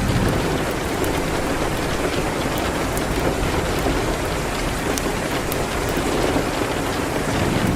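Steady rain hitting a window, a dense even hiss, with a few faint crackles from a fireplace scattered through it.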